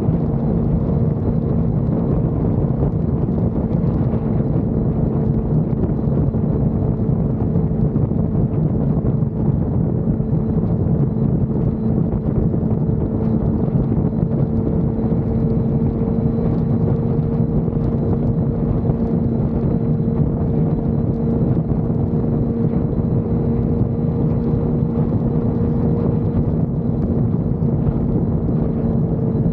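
Suzuki GSX-R600's inline-four engine running at a steady engine speed, its note holding one pitch throughout, with a rush of wind noise.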